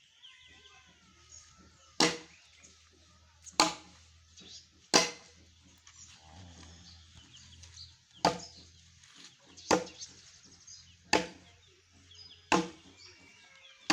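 Wood being chopped: single heavy strikes, one about every second and a half, with a pause of about three seconds in the middle.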